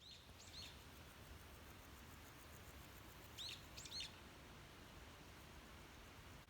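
Small wild birds giving short, high chirps: a couple near the start and a quick group of three or four about three and a half seconds in, over faint outdoor background noise.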